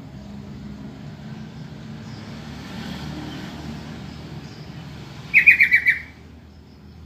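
Yellow-vented bulbul (trucukan) calling: a loud, quick burst of about six notes about five seconds in, over a low steady rumble.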